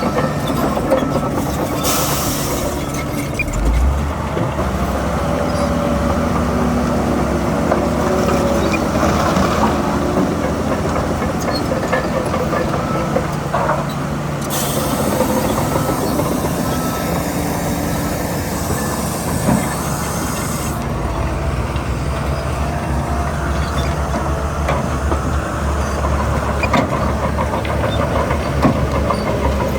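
Heavy diesel earthmoving machinery working: a bulldozer's engine runs steadily under load with clanking and rattling. A high hiss comes in about halfway through and lasts several seconds.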